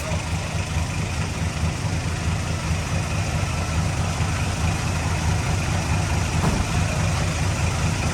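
Heavy construction machine's diesel engine running steadily at a low, even pitch.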